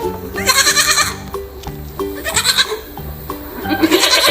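Goat bleating three times, each call quavering, over steady background music.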